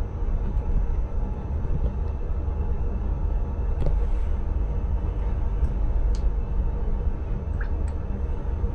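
Steady low rumble inside a passenger train's driver's cab, with a few faint clicks.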